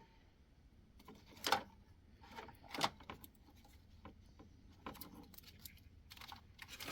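Scattered small clicks and rattles of plastic wiring clips and a wire loom cover being handled and pried at by hand.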